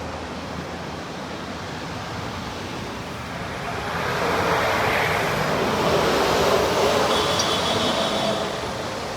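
Bus running along the road with engine hum and traffic noise, growing louder about four seconds in and staying up.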